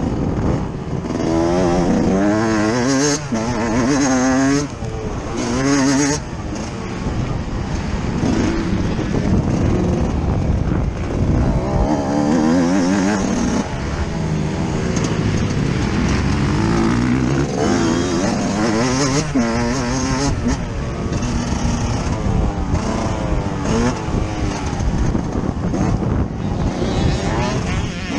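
Yamaha YZ125 two-stroke motocross bike engine heard on board, revving up and dropping back again and again as the rider accelerates, shifts and backs off while riding the track.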